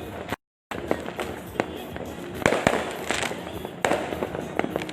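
Fireworks and firecrackers going off: many sharp cracks and bangs at irregular intervals over a steady crackling haze, with a cluster of louder bursts past the middle. The sound cuts out completely for a moment just under half a second in.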